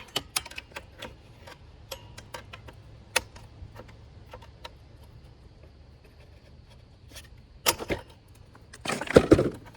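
Scattered small clicks and taps of a pry tool and plastic trim clips being handled and worked free. Near the end come a louder knock and then a short loud clatter.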